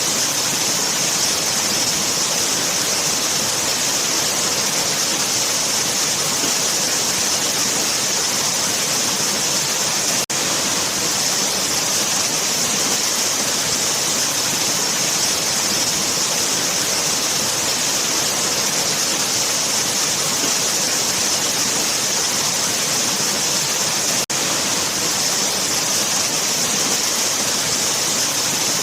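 Waterfall rushing steadily, a dense hiss of falling water that is brightest in the treble. The sound briefly drops out twice, about 10 and 24 seconds in.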